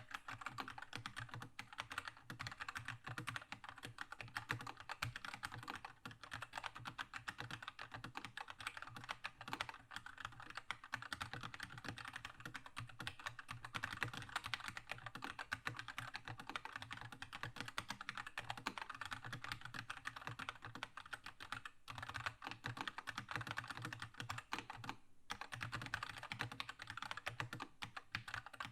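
Continuous fast typing on a Keychron K2 mechanical keyboard with red linear switches: a dense, even stream of key clacks, with two brief pauses near the end.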